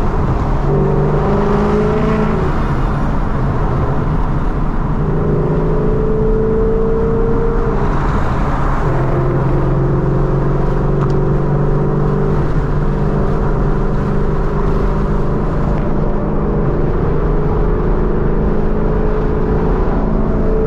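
2014 Mustang GT's 5.0-litre V8 engine and exhaust running steadily while driving, heard from inside the car. Its pitch holds for a few seconds at a time and then shifts several times.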